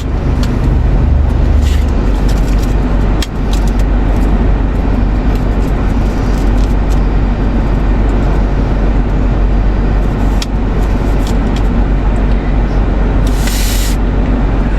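Car engine idling with the air-conditioning fan blowing, a steady low rumble and hiss heard inside the cabin. A short rustle comes near the end.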